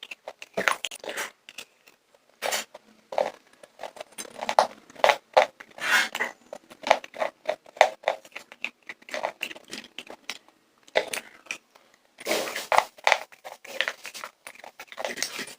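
Popcorn being crunched and chewed close to the microphone, with quick irregular crunches and a dense burst of crunching near the end.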